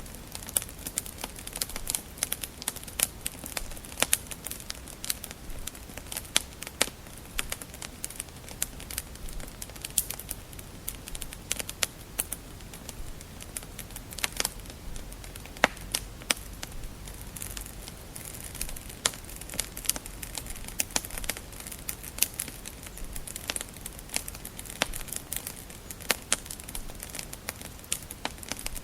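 Wood fire in a fireplace crackling, with many irregular sharp pops and snaps over a low rumble of the burning logs.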